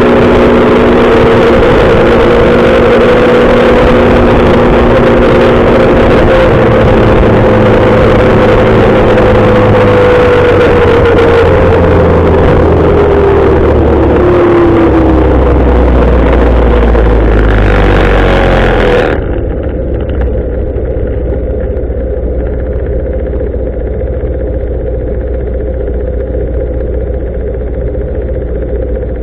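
Motorcycle engine running under way with a loud rushing noise, its pitch slowly falling as the bike slows. About two-thirds of the way in, the sound suddenly drops to a quieter, duller, steady low engine sound.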